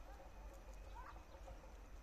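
Faint outdoor ambience: a few short bird chirps, the clearest about a second in, over a low steady rumble.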